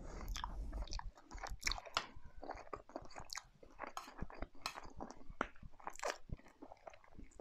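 A person chewing and eating curry close to the microphone, with wet mouth noises and light clicks of a metal spoon against a metal serving bowl.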